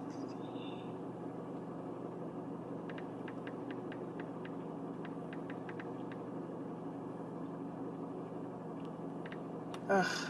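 Steady low hum of a car idling, heard inside the cabin, with a run of faint light clicks a few seconds in.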